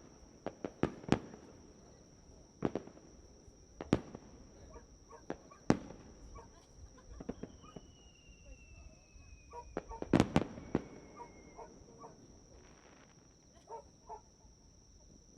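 Aerial fireworks bursting: a series of sharp cracks and bangs at irregular intervals, the loudest a quick double bang about ten seconds in. A thin whistle falls slowly in pitch for about four seconds in the middle.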